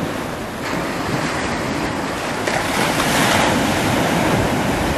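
Sea surf breaking and washing up the shore, with strong wind buffeting the microphone; a wave builds and breaks a little over two seconds in.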